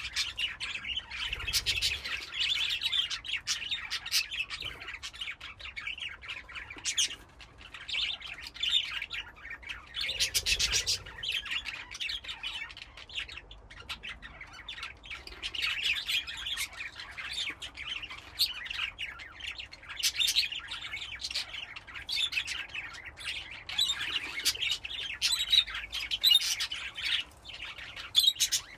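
A flock of budgerigars chattering together: many overlapping rapid chirps, warbles and short squawks with no pause, as from a busy colony cage.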